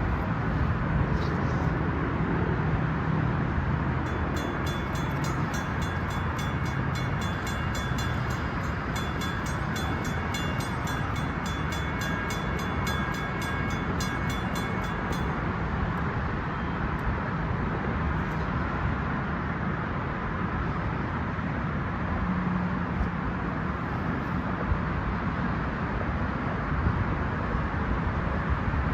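Western-Cullen-Hayes (WCH) mechanical crossing bell ringing in quick, even strikes, starting about four seconds in and stopping about eleven seconds later. A steady low rumble runs under it and on after it.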